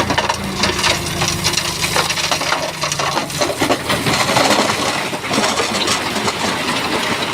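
Stones clattering and grinding against each other as a bulldozer pushes rock fill, a dense run of irregular knocks and clicks. The diesel engine's low running tone sits underneath and fades after about three seconds.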